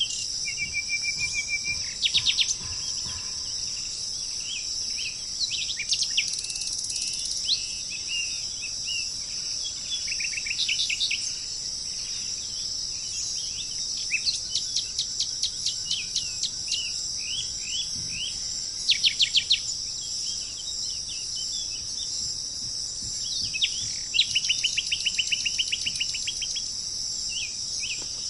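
Small birds chirping and singing, with quick runs of rapidly repeated notes at intervals, over a steady high-pitched insect drone.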